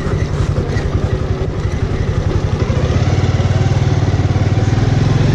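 Bajaj Avenger's single-cylinder engine running as the motorcycle is ridden, its rapid firing pulses steady and getting a little louder about three seconds in.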